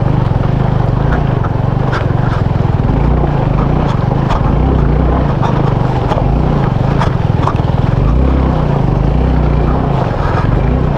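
Motorcycle engine running at low speed on a muddy road, its low note rising and falling with the throttle, with scattered clicks and knocks throughout.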